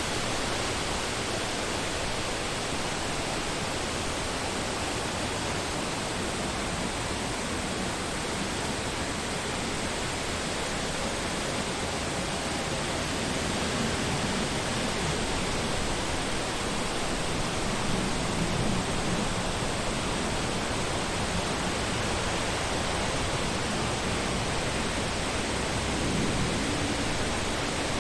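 Wind blowing through forest trees, a steady rushing with a few gentle swells of gusting.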